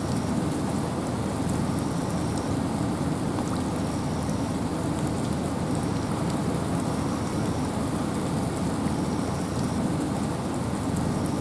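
Steady rain and wind in a forest: an even, dense hiss strongest in the low end, with scattered raindrop ticks. A faint short high note repeats about every second and a half.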